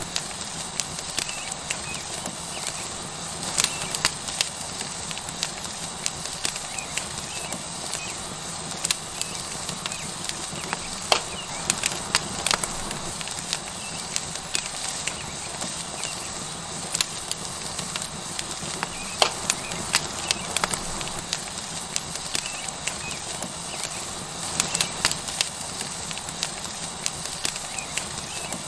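Wood fire crackling with frequent, irregular sharp pops over a steady sizzling hiss from a tomahawk steak searing on a hot stone.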